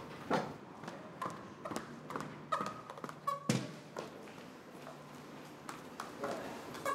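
Brisk footsteps of hard-soled shoes on a hard floor, about two sharp taps a second.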